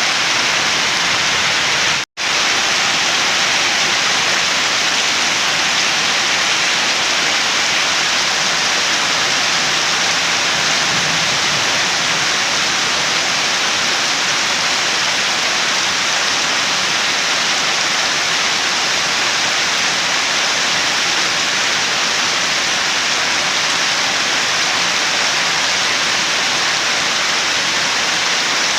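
Steady, even rain, heavy and continuous. It cuts out completely for an instant about two seconds in.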